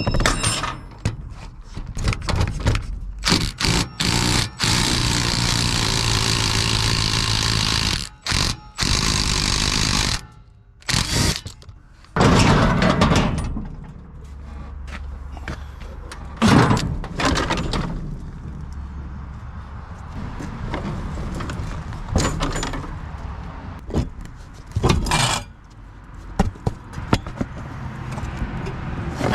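Wrenching on a three-wheeler's exhaust: irregular metal clanks, knocks and scrapes from tools and exhaust parts, with two stretches of steady noise a few seconds long in the first third.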